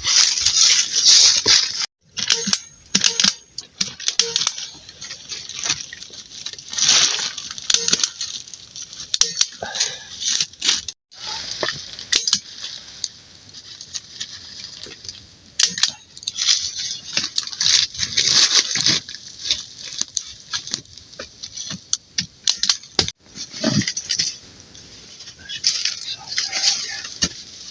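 Small plastic poly tarps crinkling and rustling as they are handled and fitted against a wall, with many sharp clicks and snaps mixed in.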